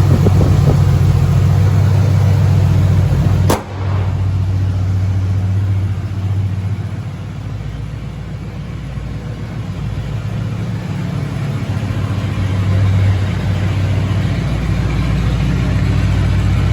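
Carbureted 7.5-litre 460 V8 of a 1987 Ford Econoline E350 idling steadily while it warms up after a cold start. A single sharp click about three and a half seconds in, after which the engine sounds a little quieter for a while.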